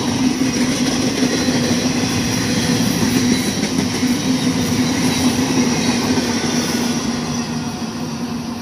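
Freight train of double-stack intermodal well cars rolling past: a steady rumble and clatter of wheels on rail with a steady low hum over it, easing off slightly near the end as the last cars move away.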